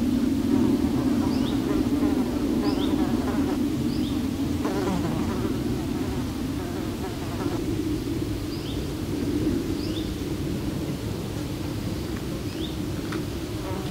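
A flying insect buzzing steadily and close, its drone wavering a little. Short high chirps from a bird come in runs of a few at a time.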